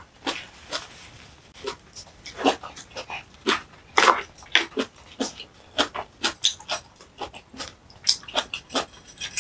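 Close-miked chewing and wet lip-smacking, an irregular run of short clicks and smacks several times a second, as in mukbang eating sounds. A wooden spoon scoops rice in a wooden bowl about four seconds in.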